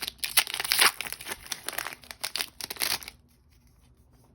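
Foil wrapper of a Pokémon booster pack being torn open and crinkled by hand, a dense crackling that stops about three seconds in.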